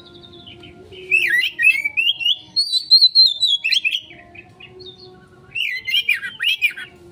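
Oriental magpie-robin (kacer) singing in rapid, jumbled 'konslet' phrases of varied whistles and chirps. It sings two bursts, one starting about a second in and a shorter one near the end.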